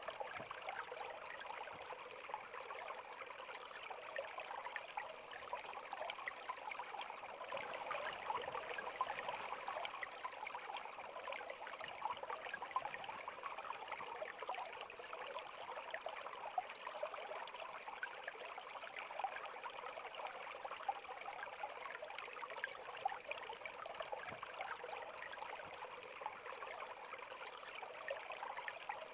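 River water flowing steadily, a continuous rush of water with many small splashes and trickles in it.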